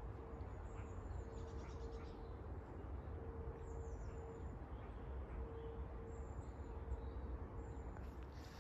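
A bird's low, steady cooing notes, repeated on and off in short phrases, with a few faint high chirps from small birds over a low outdoor rumble.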